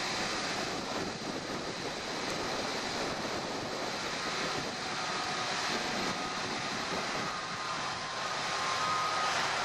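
Airbus A330 jet engines running, a steady rushing noise with a faint high whine coming in near the end.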